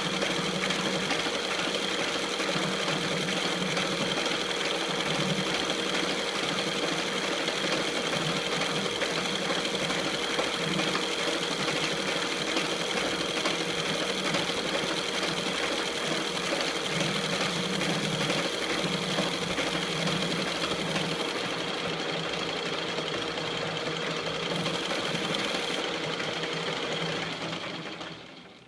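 E1N lathe running steadily, with a constant mechanical hum and high whine, then switched off and running down to a stop near the end.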